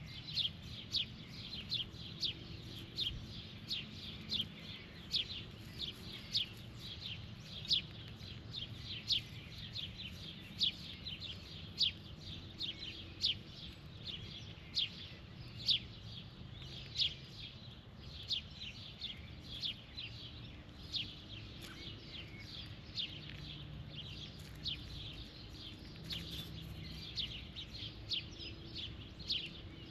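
A small bird chirping over and over, short sharp chirps at about two a second without a break, over a faint low background hum.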